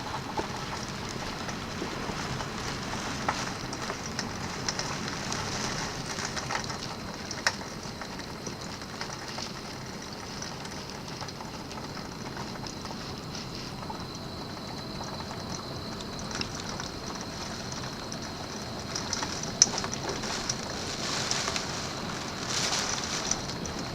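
Steady rush of typhoon rain and wind, with scattered sharp taps of drops striking a nearby surface.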